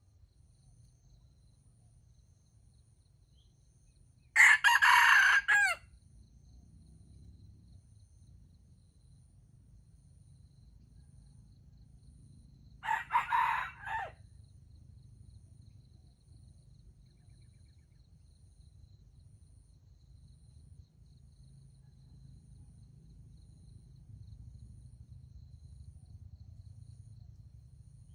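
Junglefowl rooster crowing twice: a loud crow about four seconds in, lasting about a second and a half, and a fainter, shorter crow near the middle. A faint low steady rumble runs underneath.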